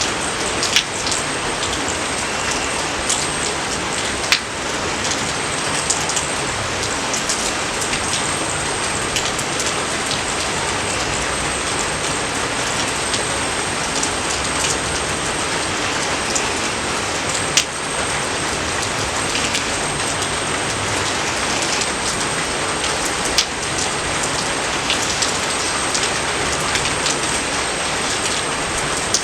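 Steady rain, an even hiss with occasional sharper drops clicking close by.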